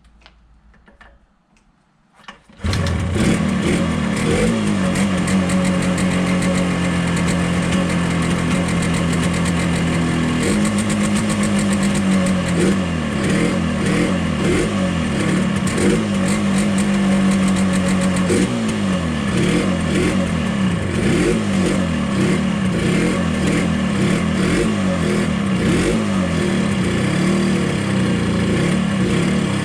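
Yamaha RD350 two-stroke twin catching about two and a half seconds in and running on choke, its speed held up for a few seconds at a time and rising and falling in between. It is firing on only one cylinder: the right-hand cylinder is dead, which the owner suspects is down to blocked jets in the right-hand carburettor.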